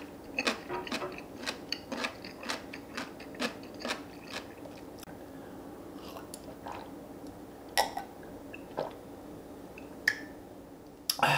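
Close-miked chewing and crunching of food: crisp crunches about two to three a second for the first four or five seconds, then slower, with a few sharper clicks and a louder clatter near the end.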